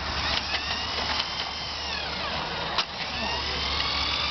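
Motor-driven drain snake running: a motor whine that sags and rises in pitch as the cable turns in the drain, with a sharp click about three seconds in.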